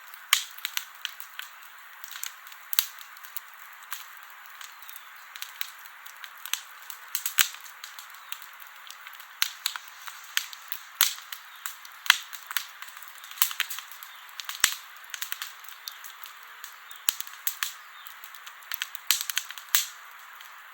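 Wood campfire crackling, with frequent irregular sharp pops and snaps over a soft hiss.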